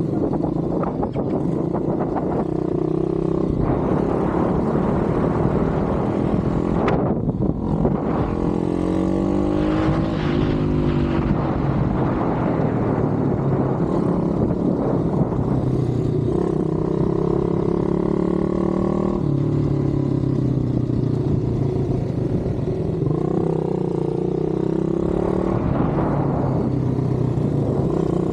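Pit bike engine running hard, its pitch climbing and dropping every few seconds as the throttle opens and closes.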